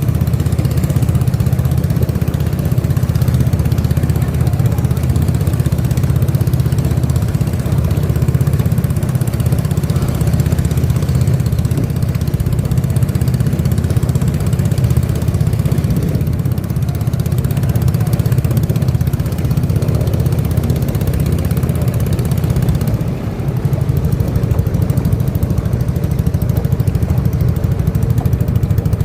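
Boat engine running steadily, with a brief drop in level about 23 seconds in.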